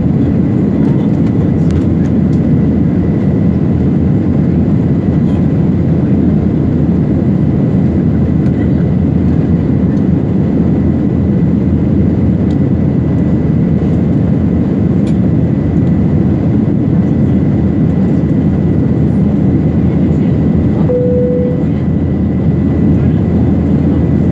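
Steady low roar of an airliner's cabin during the climb after takeoff, jet engine and airflow noise, with a faint high steady whine. A short single tone sounds near the end.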